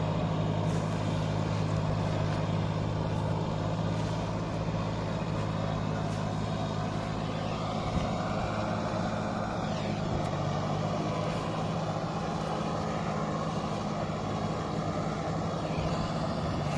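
Kubota 5501 tractor's diesel engine running steadily under load, working a rotavator through mud, with a single knock about eight seconds in.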